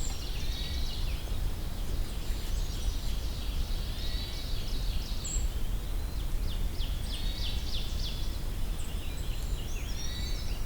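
Woodland birds calling and singing, mostly high, thin notes: golden-crowned kinglets' calls, with a red-eyed vireo's distant nasal alarm call among them. A quick run of sharp notes comes about two thirds of the way in, over a steady low rumble.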